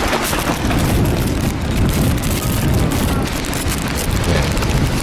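Strong wind gusting against the microphone, a loud, continuous rushing with a heavy low rumble.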